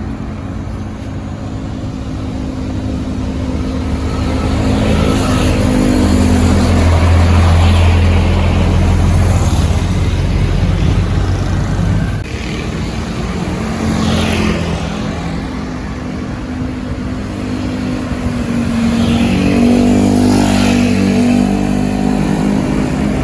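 Honda Vario 150 scooter's bored-up single-cylinder engine running through an aftermarket stock-look racing exhaust, pulling away from a traffic light in busy road traffic. The engine note swells, eases off, and swells again later.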